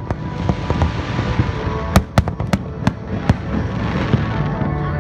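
Aerial fireworks going off: a steady crackle, then a quick run of sharp bangs between about two and three and a half seconds in, with music playing along with the display.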